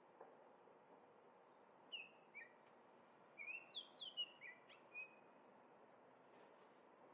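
Oriole singing: a string of short, clear whistled notes, each sliding down in pitch, mostly bunched together about two to five seconds in, over a faint background hiss.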